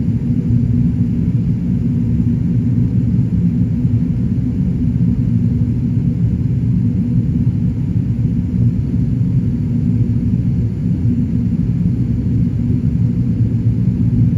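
Airbus A380 in flight, heard as a steady low rumble of engine and airflow noise that does not change.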